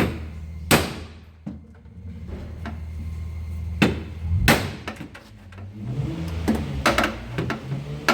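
Hammer blows on the sheet-metal rear body panel of a Nissan R31 Skyline, knocking out a crash dent: several sharp metallic strikes at uneven intervals, each with a short ring, with a low steady hum underneath.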